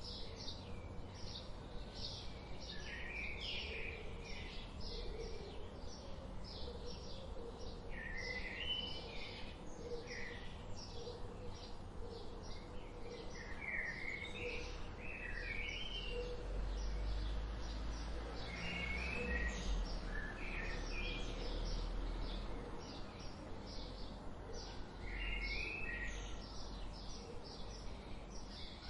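Wild songbirds singing: a steady run of short, high chirps repeated rapidly, with another bird's short warbling phrases breaking in every few seconds. A low rumble swells in the background midway and again near the end.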